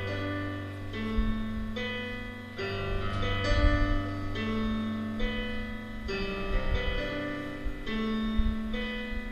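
Slow piano music: notes and chords struck about once a second over held low bass notes.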